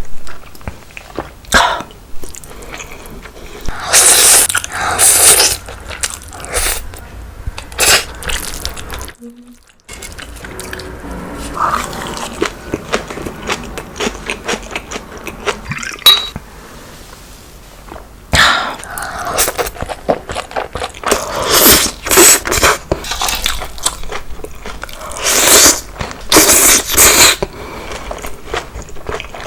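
Close-miked eating sounds: wet chewing of cheese-covered stir-fried gopchang, with irregular bursts of mouth noise and sharp clicks and scrapes of utensils, busiest in the second half.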